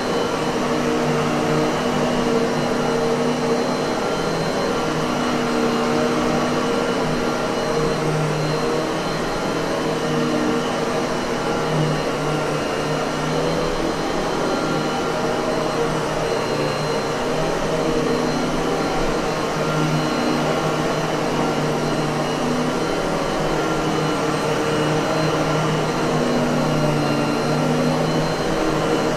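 Miele vacuum cleaner running steadily: an even rush of air over a constant motor hum, with no change in speed.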